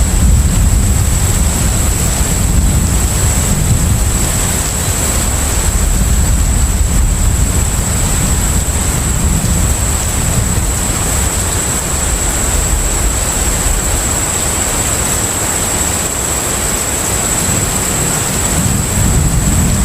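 Steady low rumble of a container ship under way, mixed with an even wash of wind and sea noise and a thin, constant high tone.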